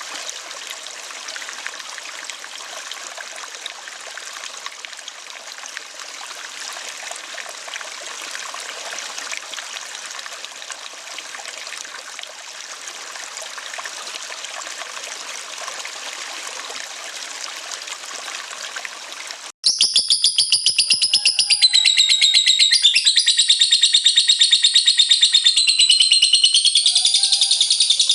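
Steady trickling of running water; about two-thirds through it cuts off abruptly and a lovebird's loud 'ngekek' begins: a long, unbroken, rapid high-pitched chattering trill that carries on to the end.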